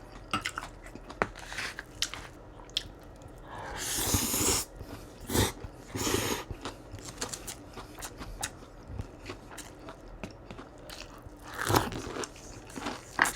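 Close-miked biting, crunching and chewing of crispy Chinese takeout food, with many short crunches and two longer rushing noises about four and six seconds in.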